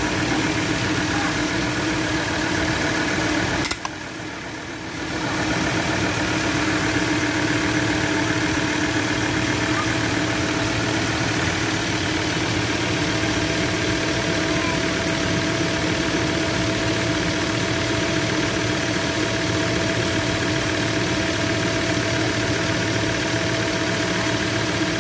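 Ford Ranger 3.2 five-cylinder diesel engine idling steadily, with a constant whine-like tone over the engine noise. The sound dips briefly about four seconds in, then comes back.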